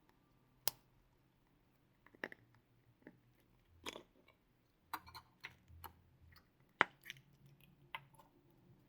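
Slime being squished and worked by hand: scattered sticky clicks and small crackly pops, the sharpest about a second in and near seven seconds in.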